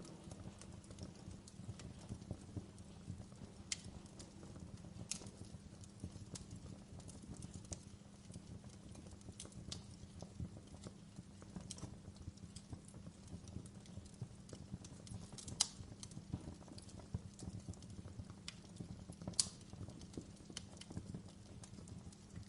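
Fire crackling: a steady low rumble with irregular small crackles and a few sharper pops, the loudest two about two-thirds of the way through and near the end.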